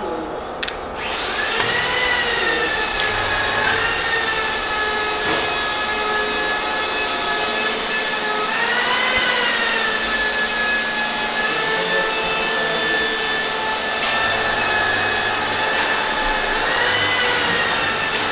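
A power tool's motor whining steadily, its pitch sagging and recovering every few seconds as it is loaded and eased off, after a brief drop in sound at the start.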